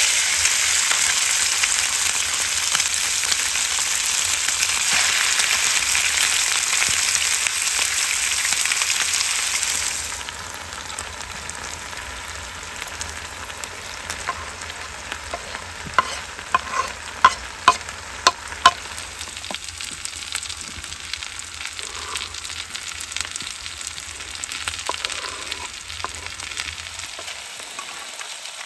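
Raw meat chunks dropped into hot oil in a frying pan on a portable gas stove, sizzling loudly for about ten seconds, then settling to a quieter steady frying. A little past halfway there is a quick run of about six sharp knocks of utensils against the pan.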